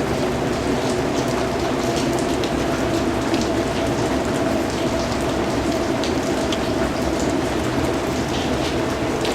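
Steady rainfall, an even hiss with many separate drop hits ticking through it.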